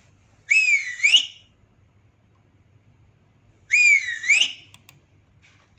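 Two whistles about three seconds apart, each about a second long, sliding down in pitch and then back up.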